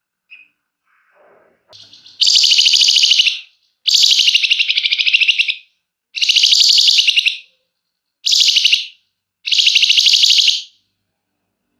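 Flamboyan songbird singing five long, fast rattling trills (the 'ngebren' song), each over a second, with short pauses between, after a few faint chips. It is the drawn-out song that bird keepers play as a lure.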